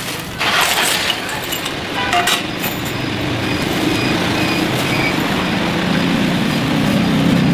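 A motor vehicle engine running close by, growing louder toward the end, with a short noisy burst about half a second in.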